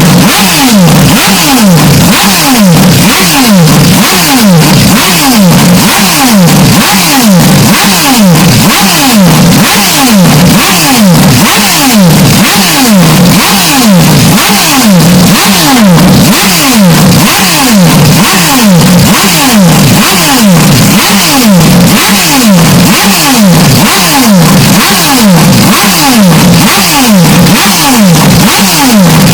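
Historic Formula One race car engine sound, over-amplified and heavily distorted, held at full loudness with falling pitch sweeps repeating about twice a second.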